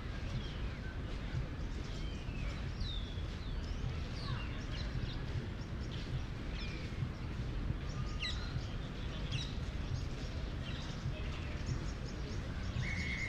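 Several birds chirping and calling in short rising and falling notes over a steady low city rumble, with one held high note near the end.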